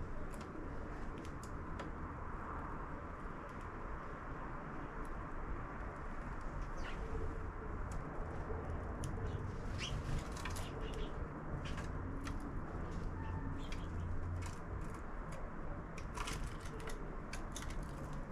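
Sparrows at a bird feeder: brief chirps and many scattered sharp taps and clicks over a steady low background noise.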